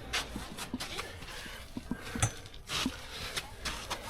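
Scattered light knocks and scuffs from someone moving about and climbing on a beached boat, over a faint background hiss.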